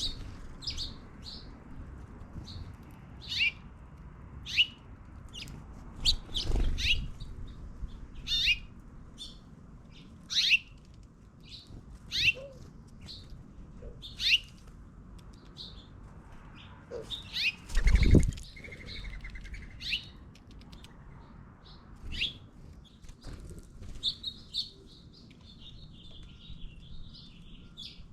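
Small birds calling over and over in short, high, downward-slurred chirps, about one every second or two, with a quicker twittering near the end. Two louder, low flutters stand out, one about a quarter of the way in and the loudest a little past halfway.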